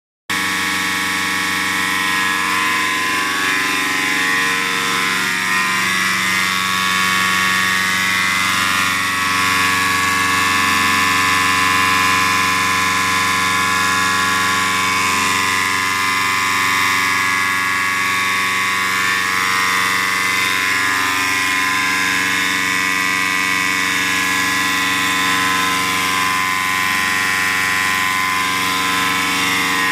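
Diesel engine running steadily at an even speed, with no revving.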